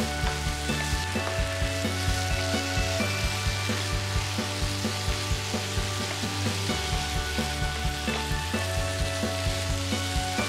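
Vegetables and seafood sizzling in a hot nonstick frying pan while being stirred with a wooden spatula, a steady frying hiss, over background music with a steady beat.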